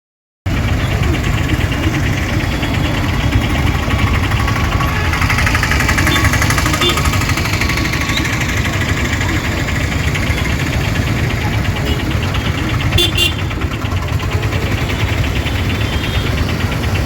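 Fire engine's engine running steadily, with a short cluster of sharp clicks about thirteen seconds in.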